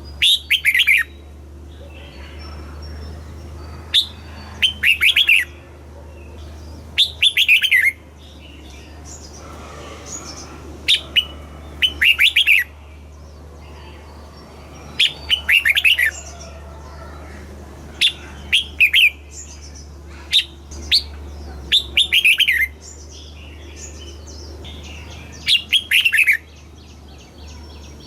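Red-whiskered bulbul singing short phrases of quick whistled notes that slide down in pitch, one phrase every three to four seconds, over a steady low hum.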